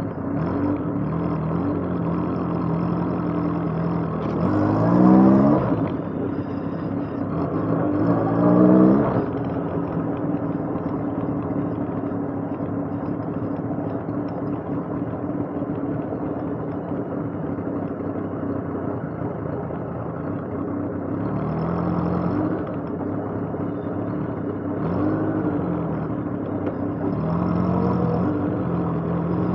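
Motorcycle engine accelerating, its pitch climbing twice and dropping back at each gear change, then running steadily. The revs rise and fall again over the last several seconds.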